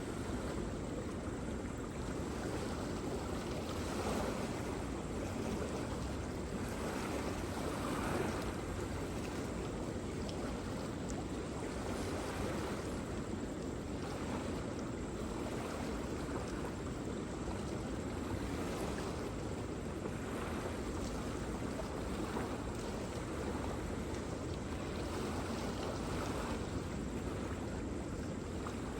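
Waterfall: a steady rush of falling water, with gentle swells every few seconds.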